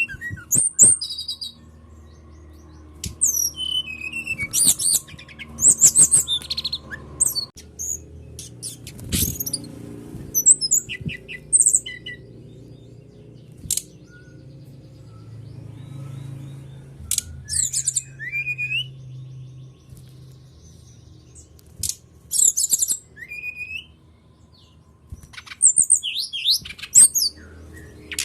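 Brown-chested jungle flycatcher song: short, high, quickly warbling phrases in clusters separated by brief pauses, over a faint low hum.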